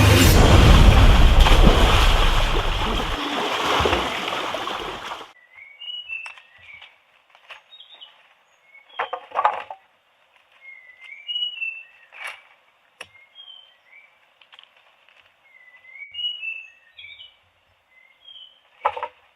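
Small birds chirping with many short, quick calls and a few sharp clicks, sounding thin and narrow like a phone recording. It follows a loud wash of noise that cuts off suddenly about five seconds in.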